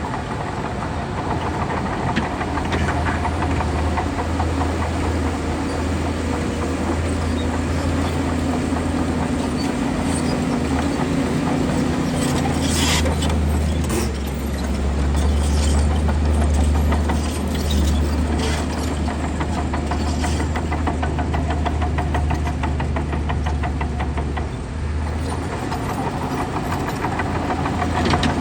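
Heavy diesel earthmoving machinery running steadily, a deep engine drone that swells in the middle, with scattered metallic clanks.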